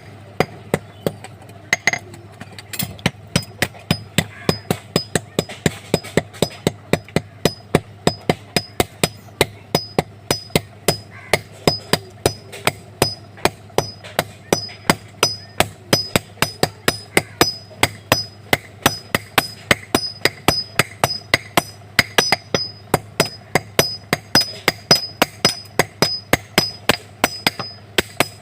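Blacksmith's hammer striking metal on an anvil in a steady, even rhythm of about three blows a second, each blow with a short high metallic ring.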